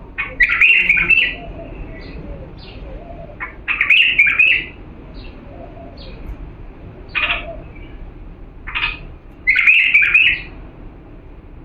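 Bulbul singing: three short, loud warbled phrases a few seconds apart, with single short notes in between. This is the Diyala bulbul's song, used as a tutor song for young birds to learn.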